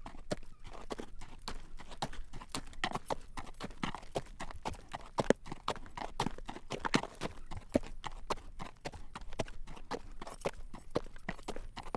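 Horse's shod hooves clip-clopping on a hard road at a walk while it draws a carriage, a steady run of sharp clacks several times a second.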